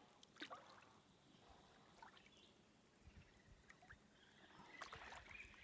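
Near silence with faint water sounds around a boat: small splashes and trickles, with a few scattered light clicks.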